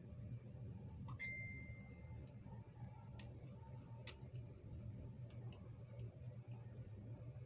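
Faint scattered clicks and taps of small plastic toy pieces being handled during unboxing, with one short ringing clink about a second in, over a low steady hum.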